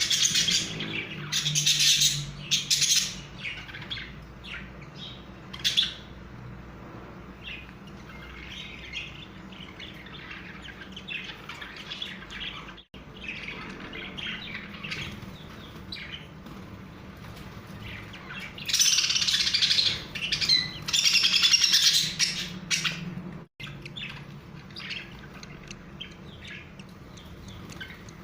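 Budgies chirping and twittering in bursts, loudest at the start and again for a few seconds past the middle, over a low steady hum. The sound cuts out abruptly twice.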